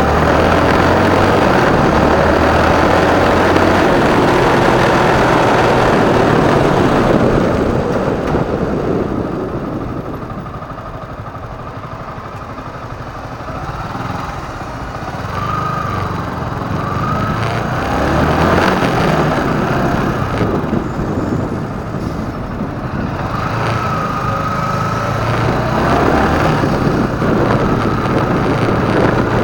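Motorcycle engine running with wind noise rushing over the microphone. It eases off and goes quieter for a few seconds in the middle, then picks up again.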